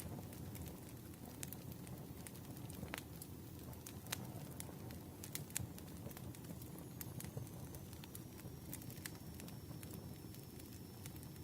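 Campfire crackling: a steady low rush of burning wood with scattered sharp pops and snaps.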